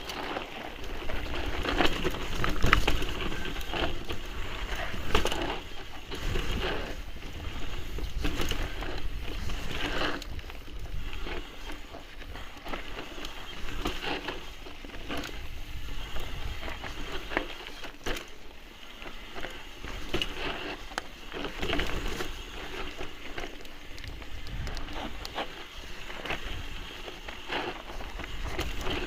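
Mountain bike riding over a rough, rocky trail: tyres crunching over stones and the bike rattling and knocking on bumps in an irregular stream, over a steady low wind rumble on the microphone.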